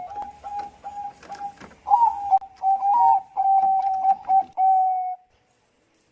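Zebra dove (Bangkok-strain perkutut) cooing: a run of short notes on one pitch, then longer drawn-out notes, ending on a long note about five seconds in.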